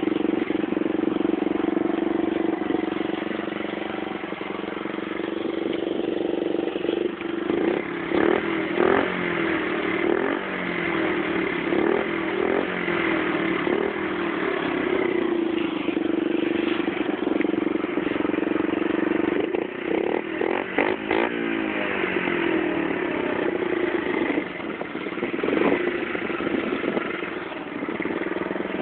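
Honda Super Cub C50's small four-stroke single-cylinder engine idling and revved up and back down several times through a loud aftermarket muffler.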